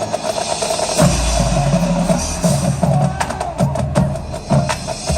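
Marching band playing, led by its drumline: pitched bass drum notes and sharp snare hits in a quick rhythm over a held band note, with a heavy low hit about a second in.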